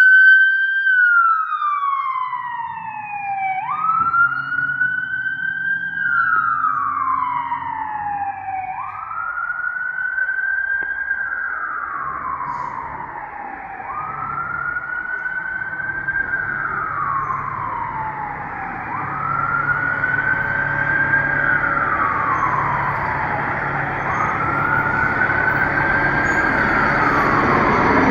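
Emergency-vehicle siren on a slow wail, rising and falling about every five seconds, over the low rumble of a heavy engine; it grows louder toward the end.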